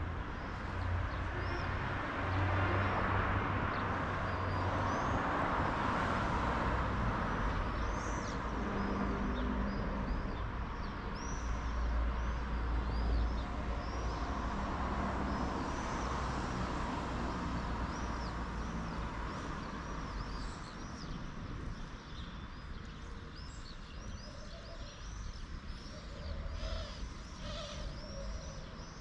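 Small birds chirping and twittering, more densely near the end, over a low rumble and rushing noise that swells during the first half and then fades.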